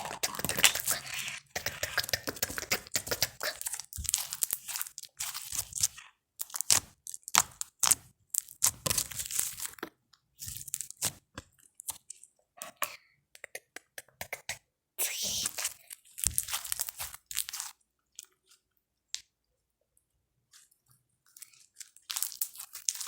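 Close-miked ASMR slime and mouth sounds: runs of rapid wet clicks, crackles and squishes, broken by pauses, with a few seconds of near quiet before a last short run near the end. The slime is soft and thinned with extra water.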